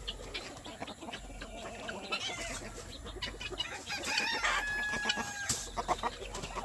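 A flock of chickens clucking and calling, with one longer held call a little past the middle.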